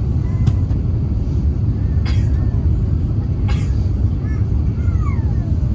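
Cabin noise inside an Airbus A350-900 during landing: a steady, loud low rumble of engines, airflow and airframe, with a few brief sharp rattles about half a second, two and three and a half seconds in.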